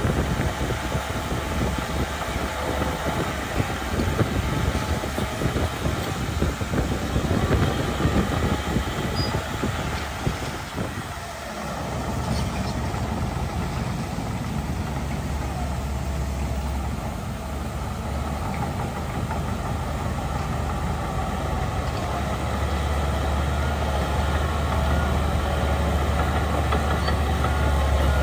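Heavy diesel earthmoving machinery (bulldozer and dump truck) working. For the first ten seconds or so the engine noise is mixed with dense rattling and clanking, then it settles into a steadier low engine drone that grows louder toward the end.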